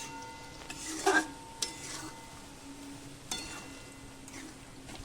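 A spatula stirring chicken in a kadai during kasha, the slow frying of chicken in spice paste and oil: three short scrapes and knocks against the pan, the loudest about a second in, over a faint sizzle and a faint steady hum.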